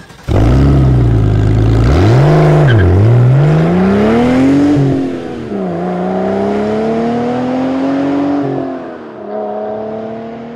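Car engine revving: its pitch sweeps up and down several times, with a quick dip and rise around three seconds in and a long climb before settling into a slower, steadier rev. It starts suddenly and cuts off abruptly at the end.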